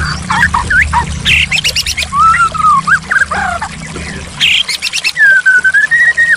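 White-rumped shama singing: a fast, varied run of whistled notes sliding up and down, broken twice by quick, harsh chattering bursts, with a long wavering whistle near the end.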